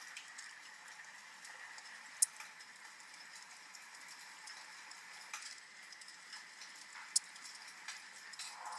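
Wood fire crackling in a fireplace, with small irregular snaps and two sharp pops, about two seconds in and again near seven seconds, over a steady hiss of rain.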